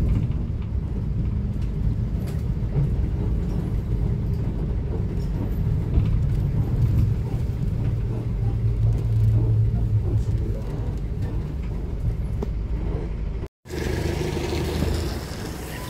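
Cummins ISF3.8 four-cylinder turbo-diesel engine of a Daewoo Lestar bus running, heard from inside the bus as a steady low rumble. The sound cuts out abruptly for a moment near the end, then returns with more hiss.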